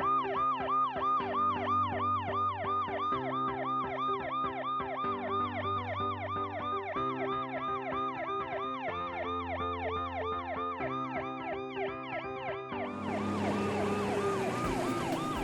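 Cartoon police car siren in a fast wail, about three to four rising-and-falling sweeps a second, over low steady tones that shift every two seconds or so. Near the end a hiss joins in.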